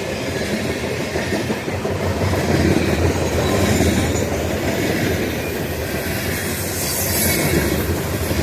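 BNSF freight train passing quickly, its wheels clattering over the rails with a steady rumble and rattle of the cars.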